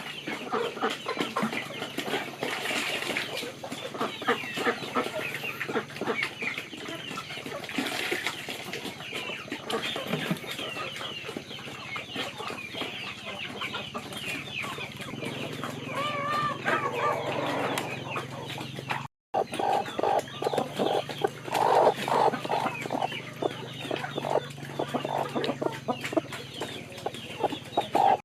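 Chickens clucking, with many short calls, broken by a brief silent cut about two-thirds of the way through.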